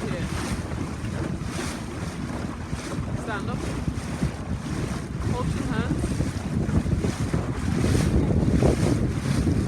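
Wind buffeting the microphone over the wash of sea water aboard a boat, a steady low rumble that swells in gusts and grows louder near the end.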